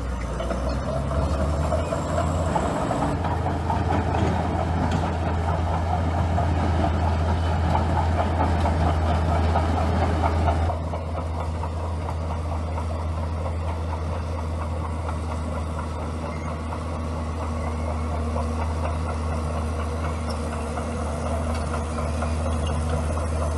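Bulldozer's diesel engine running steadily with a low drone. For about the first ten seconds a louder, noisier layer sits over it, then drops away suddenly, leaving the engine running more quietly.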